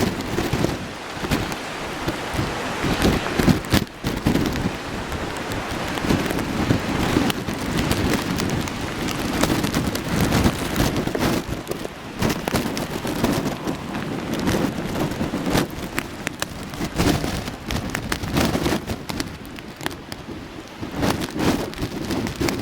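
Typhoon-force wind buffeting the microphone in gusts over the rumble of heavy surf breaking against the tetrapod sea wall.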